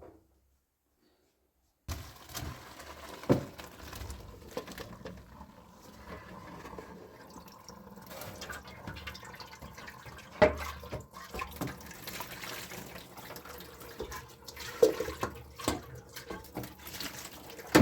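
Water pouring and splashing, with a few sharp knocks of a vessel or utensil. It starts after about two seconds of silence.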